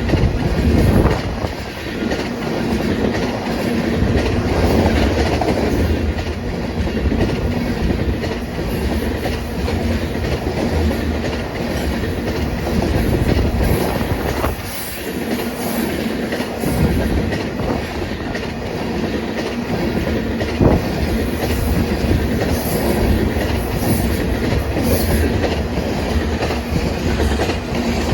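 Freight train rolling past: a steady rumble of cars with wheels clicking over rail joints and a few sharp knocks.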